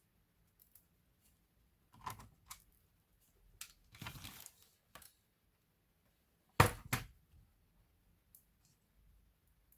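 Hands working on a laptop's plastic and metal parts: scattered small clicks and a short rustle, then a sharp knock with a second just after, about two-thirds through.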